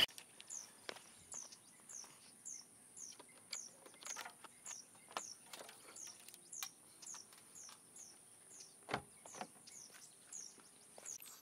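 A bird chirping faintly, one short falling note repeated evenly about two or three times a second, over a steady faint high hiss.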